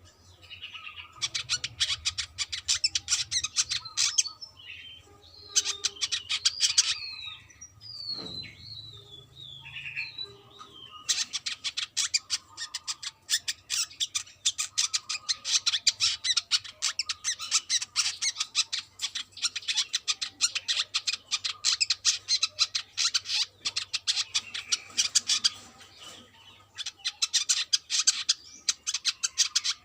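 Brown-throated sunbird singing a fast, stuttering chattering song in long runs of rapid high notes. Between about eight and ten seconds in, a few short down-slurred whistles break the runs. A faint low hum sits underneath.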